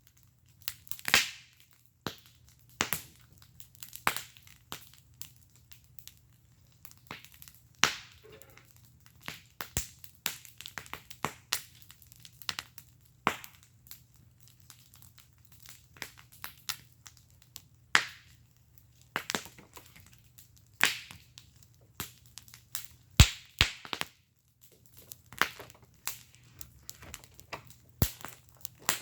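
Wood fire in a fire pit crackling, with irregular sharp pops and snaps from the burning wood, some close together and some a few seconds apart.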